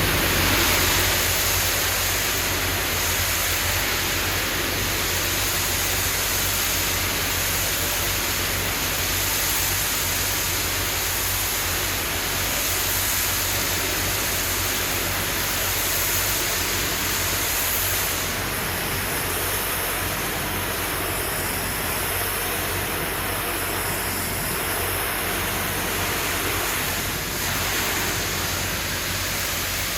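Pressure washer spraying a high-pressure water jet onto precast concrete: a steady, loud hiss of water, with the machine's motor humming steadily underneath.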